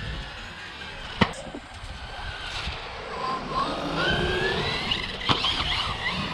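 Electric RC car's motor whining and rising in pitch as it speeds up, with a sharp knock about a second in and another near the end as the car lands.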